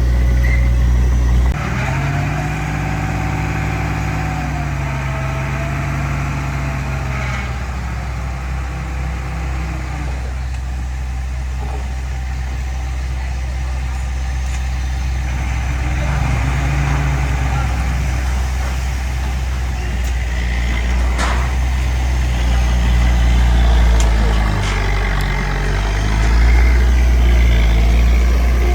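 Heavy diesel engine of earthmoving machinery running under varying load, its note rising and falling several times and swelling louder near the end, with a single sharp knock about two-thirds of the way through.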